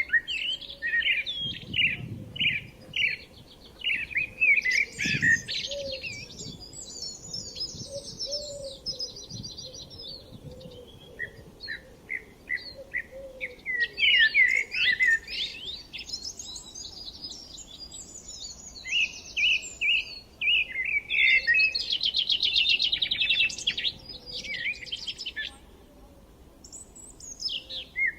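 Songbirds singing: overlapping phrases of quick chirps and rapid trills, with a brief lull near the end.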